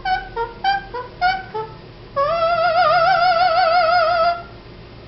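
Pet bird singing in an opera-like style: a quick run of short two-pitched notes, then, about two seconds in, one long held note with a wide wavering vibrato that stops a little after four seconds.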